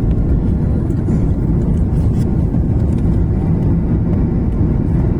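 Steady low rumble of a Korean Air airliner, unchanging in level.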